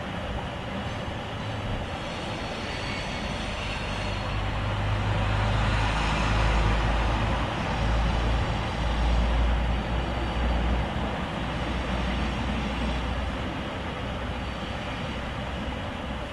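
Low rumble of a heavy vehicle over a steady roar, swelling about four seconds in and easing off after about eleven seconds.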